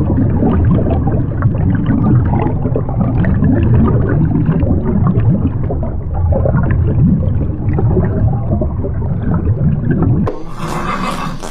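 A long, low, sputtering rumble that runs unbroken for about ten seconds and stops abruptly near the end, followed by a few sharp clicks.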